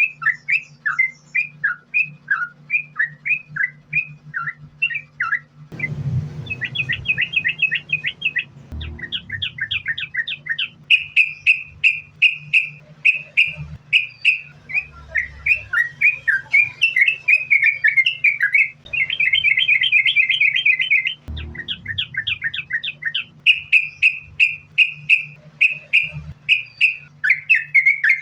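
Yellow-vented bulbul (trucukan) singing in rapid, continuous runs of short chirping notes, with fast trills about six seconds in, around nineteen seconds and near the end. A low steady hum runs underneath, and there are brief low rustles at about six and twenty-one seconds.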